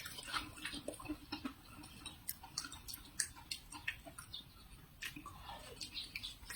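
Close-miked chewing of crisp pear: irregular, juicy crunches and small mouth clicks, a few every second.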